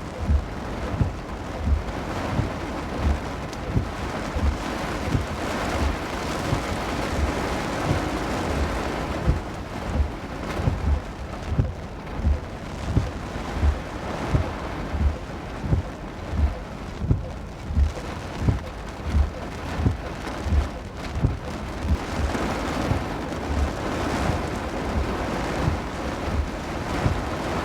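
Heavy downpour with wind, a steady rushing hiss, over a regular low thump about three times every two seconds.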